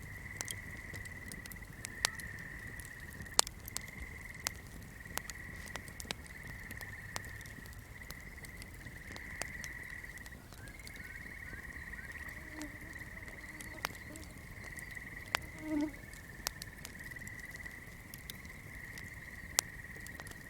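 Swamp night ambience: a steady high trilling chorus of frogs and insects, with irregular sharp crackles from a flickering flame. A few short low croaking calls come in during the second half, the loudest about three-quarters of the way through.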